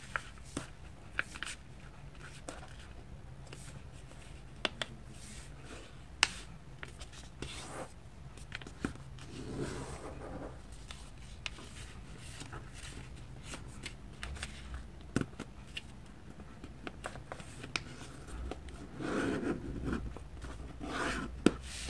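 A sheet of paper being folded and creased by hand: scattered light crisp ticks and a couple of soft rustles as the paper is slid and pressed flat.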